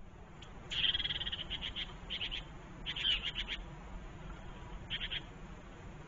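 Small garden songbirds calling in four short bursts of rapid repeated notes, over a faint steady low rumble.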